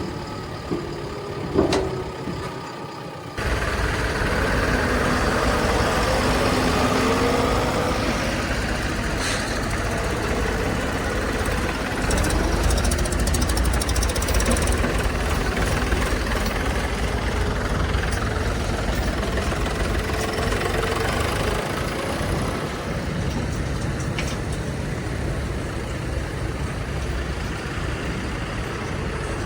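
Heavy diesel engines running steadily, as of a backhoe loader and tipper trucks at work. There are a few knocks in the first three seconds, then the engine sound comes in abruptly about three seconds in and carries on.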